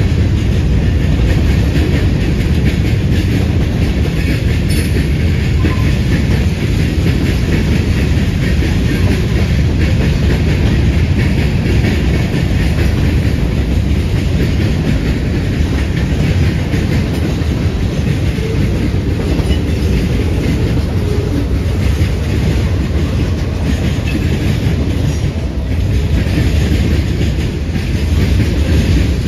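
A long freight train of covered hoppers, log-loaded centerbeam flatcars and boxcars rolling steadily past: a continuous rumble with the clickety-clack of steel wheels over rail joints.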